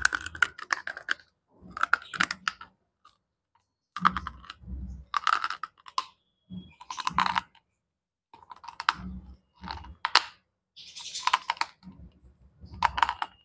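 Slate pencil being bitten and chewed right at the microphone: crisp crunching in about ten short clusters of sharp clicks, with brief pauses between them.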